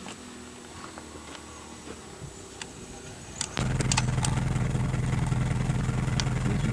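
A few faint clicks over low background, then about halfway through an engine cuts in abruptly and runs steadily with a low, even hum.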